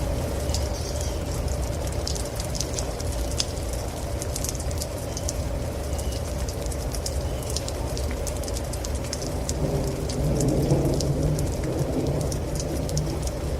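Thunderstorm: steady rain with many sharp close drop ticks over a low rumble of thunder, which swells louder about ten seconds in.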